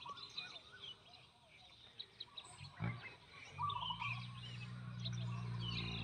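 Small birds chirping and twittering in short, quick calls, with a single knock just before the middle and a low steady hum coming in a little past halfway.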